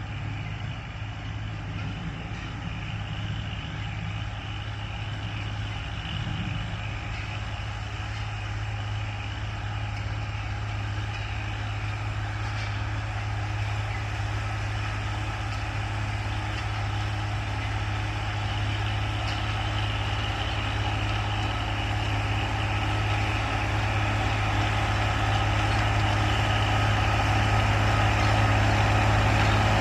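John Deere 4430 tractor's six-cylinder turbo diesel running steadily under load as it pulls a disc and roller through the field, getting steadily louder as it comes closer.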